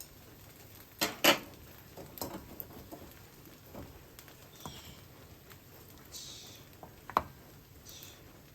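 Kitchen utensils knocking and scraping against cookware: a few sharp clinks, the loudest pair about a second in, a short ringing clink about seven seconds in, and brief scraping sounds in between.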